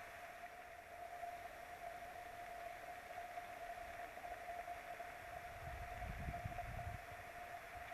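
Steady hiss of rain on a nest camera's microphone, over a constant electrical hum. A low rumble rises for about a second near the end.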